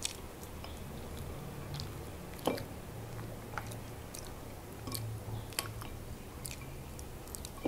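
Soft chewing and small wet mouth clicks of someone eating pork rib meat, with a sharper click about two and a half seconds in.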